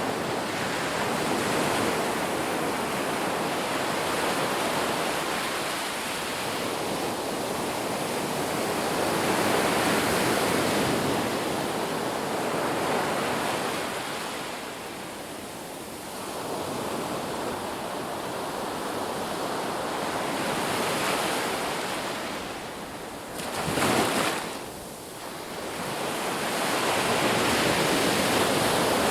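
Ocean waves breaking and washing up a beach, the surf rising and falling in slow swells, with one short, sharper crash about three-quarters of the way through.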